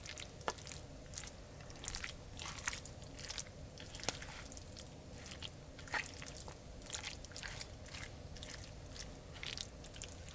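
Someone eating at close range: irregular crunching and clicking of bites and chewing, a few a second.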